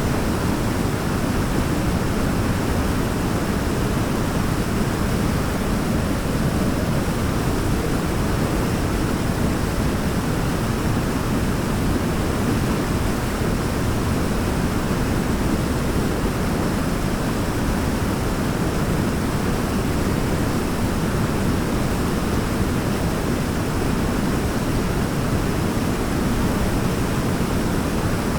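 Waterfall rushing steadily, an even, deep roar of falling water with no change or break.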